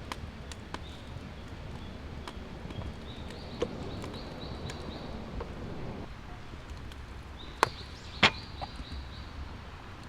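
Wood campfire crackling: scattered small pops over a low steady rumble, with two sharp, louder snaps a little over halfway through, less than a second apart.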